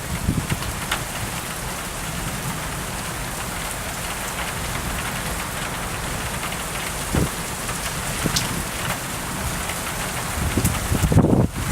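Heavy rain falling steadily during a thunderstorm, with a few sharp drop clicks. A low rumble swells briefly near the end.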